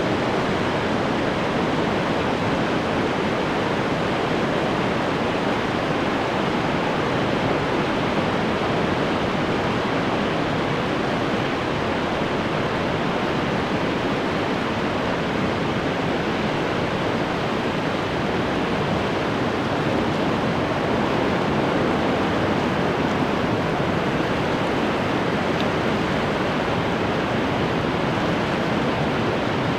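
Ocean surf washing on the shore: a steady, even rush of water with no single wave standing out.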